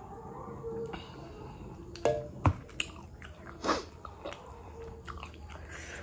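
Close-miked chewing of a mouthful of mutton curry and rice, with a few sharp clicks and knocks near the middle.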